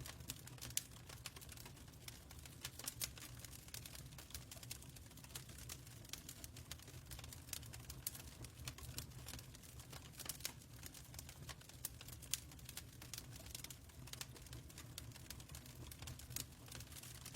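Fireplace crackling faintly: irregular small pops and clicks, several a second, over a low steady rumble.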